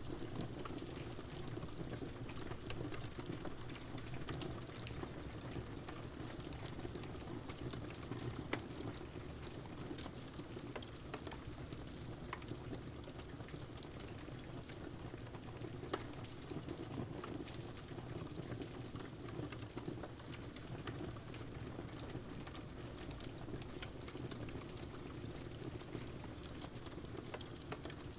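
Wood fire crackling in a fireplace, with scattered sharp pops, over a steady hiss of rain.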